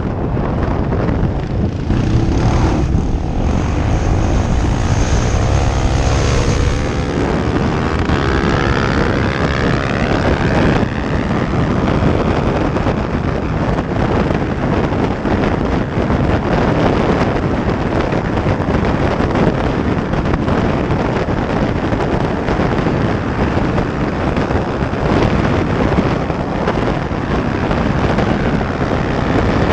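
Motorcycle engines running at speed on a dirt road, almost buried under heavy wind buffeting on the microphone. A steady engine note stands out for a few seconds near the start, then the rush of wind dominates.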